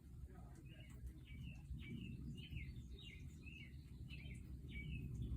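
A songbird chirping faintly: a run of short, downward-sliding chirps, about two a second, over a low steady rumble.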